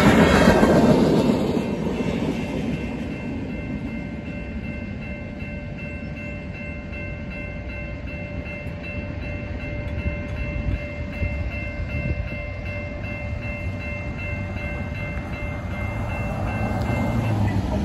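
Tail end of a freight train rolling through a grade crossing, its rumble and wheel clatter fading over the first couple of seconds. A railroad crossing warning bell rings steadily behind it and stops near the end as the crossing gates rise.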